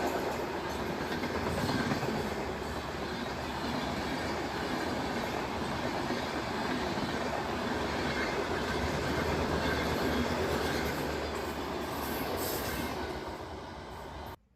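Vande Bharat Express electric train running on the rails with a steady rumble. It fades a little near the end and then cuts off suddenly.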